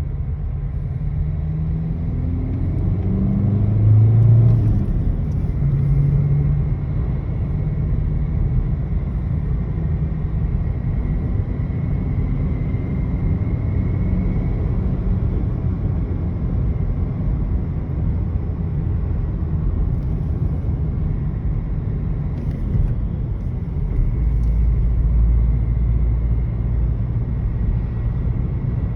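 A car running on the move, with a steady low rumble and its pitch rising for a few seconds near the start as it gathers speed; a deeper drone swells for a few seconds near the end. It carries the 'hın hın' throb that appears at a certain engine speed and a wind-like hum, a noise whose cause the owner has not found.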